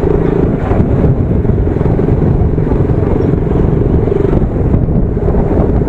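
KTM Duke motorcycle engine running steadily under way, recorded from the rider's position with road and wind noise.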